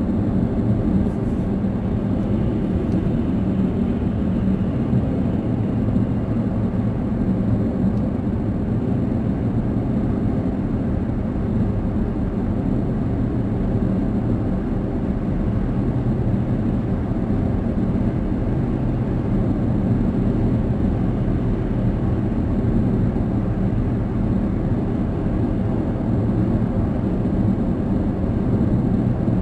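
Steady low rumble of a car on the move, heard from inside the cabin: tyre and road noise mixed with the engine's drone at a constant speed.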